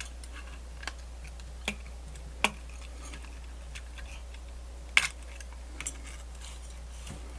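A handful of short, sharp clicks and taps, about five spaced irregularly over several seconds, from handling small parts and tools while taking apart a portable radio. A steady low hum runs underneath.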